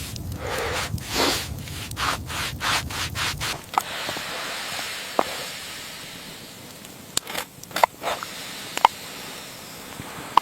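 Rhythmic scraping or rubbing strokes, about three a second, with a low rumble underneath; they stop about three and a half seconds in. A softer steady hiss follows, with a few scattered sharp clicks.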